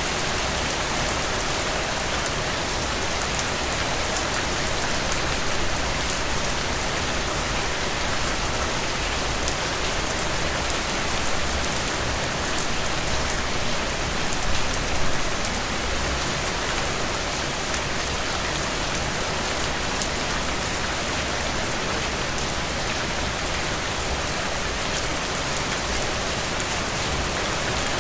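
Heavy rain falling steadily, with many close drips pattering on a surface over the dense hiss of the downpour.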